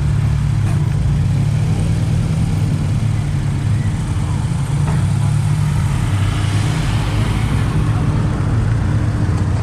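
Car engine idling close by, a steady low rumble with no revving.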